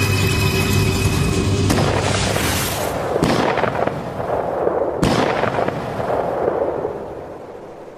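Tense music breaks off about two seconds in. Hunting rifle shots ring out, the sharpest about five seconds in, each trailing a long rolling echo that fades away.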